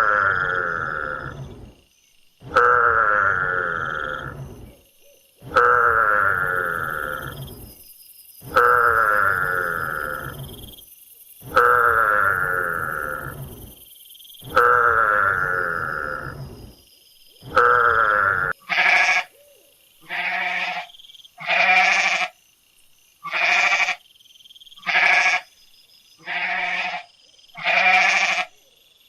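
Farm animal calls: a long, fading call repeated about every three seconds, then, about two-thirds of the way in, a run of short bleats, about one every second and a half.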